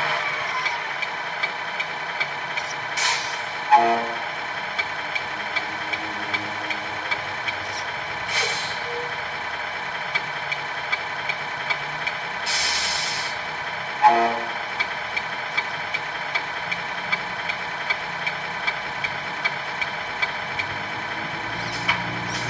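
Scale Scania R620 RC truck's sound module playing a simulated diesel engine idling through its small onboard speaker, with even ticking throughout. Three short air-release hisses come about 3, 8 and 12 seconds in, and two brief louder tones about 4 and 14 seconds in.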